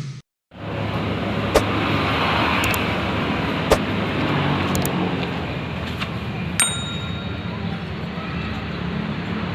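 Steady engine-like hum throughout, with a few sharp clicks and, about two-thirds of the way through, one ringing metallic clang.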